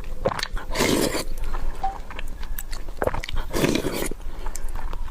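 Close-miked chewing and eating of rice and braised pork, with noisy mouthfuls about a second in and again three to four seconds in, and small wet clicks between them.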